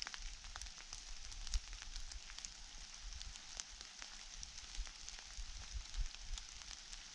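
Faint crackly rustling with many small scattered clicks, from litter and the dry forest floor being handled during cleanup, over a low rumble of handling or wind on the microphone.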